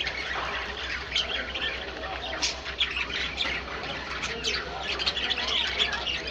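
Caged pet birds chattering, many short squawks and chirps overlapping without a break, over a steady low hum.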